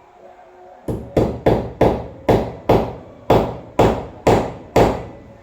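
About ten sharp knocks in quick succession, roughly two to three a second, starting about a second in: repeated striking, as in hammering during the washing machine motor installation.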